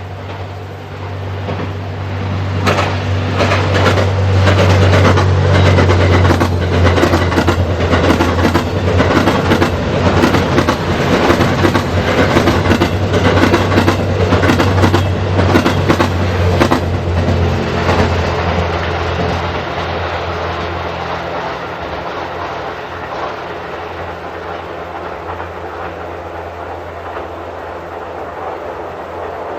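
Twilight Express Mizukaze, a JR West 87 series diesel-electric hybrid train, passing close by. Its wheels click over the rail joints for about fifteen seconds over a steady low engine hum. The clicking stops and the sound fades as the train moves away.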